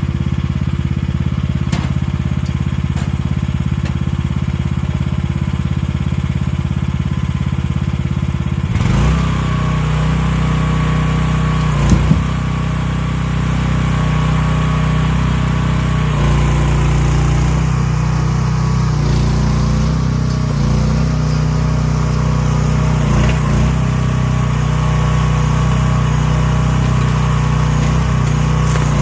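The 15-horsepower gasoline engine of a 1-ton mini excavator runs steadily. About nine seconds in, its note changes and a thin high whine joins in as the hydraulics work the grapple on a heavy log. There is a single sharp knock soon after.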